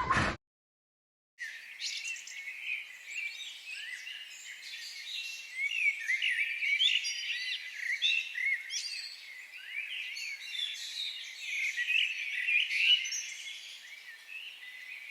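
Many small birds chirping at once: a dense, overlapping chorus of short high chirps and quick rising and falling notes, starting after about a second of silence.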